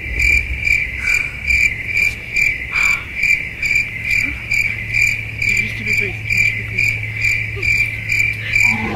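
Steady high-pitched chirping, an even pulse of about two to three chirps a second, like a cricket, over a low steady hum.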